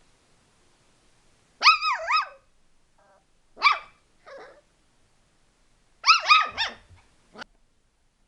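A small dog barking in short, high-pitched yips that come in bursts: two or three quick yips, a single one, a fainter one, then a rapid run of four and a last short one.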